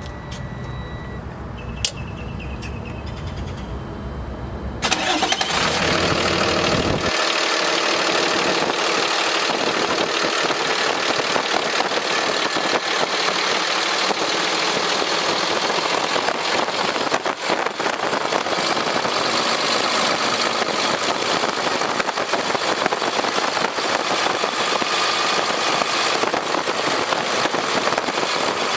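Cummins ISB inline-six diesel of a Freightliner M2 dump truck starting up about five seconds in, then running steadily at idle.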